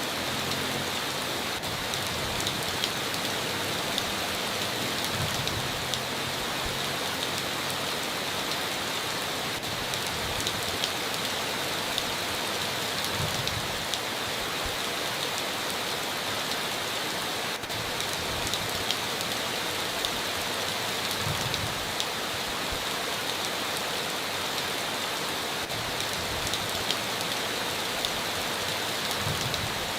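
Heavy rain falling steadily on a tin roof, with scattered sharper drop hits standing out from the constant hiss.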